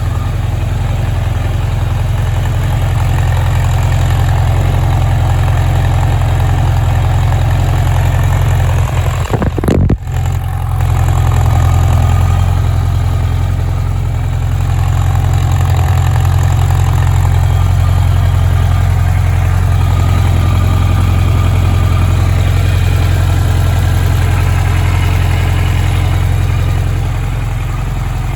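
Kawasaki Z1000R2's air-cooled 998 cc inline-four engine idling steadily, with a brief disturbance about ten seconds in.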